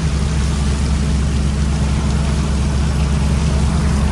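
Fishing boat engine running steadily while the net is hauled: a continuous low drone with an even hiss over it.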